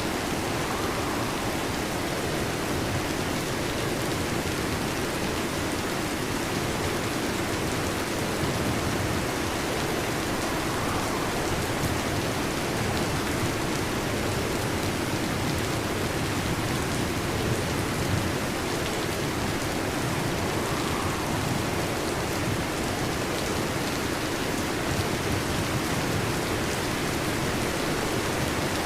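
Steady heavy rain: an even, unbroken hiss of falling rain, with no thunder.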